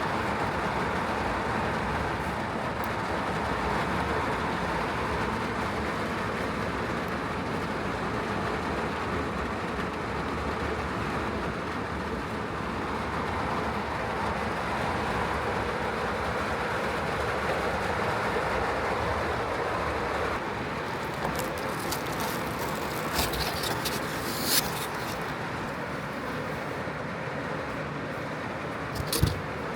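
Heavy rain drumming steadily on the roof and body of a Honda N-VAN kei van, heard from inside the van, with a few sharp clicks or knocks in the last third.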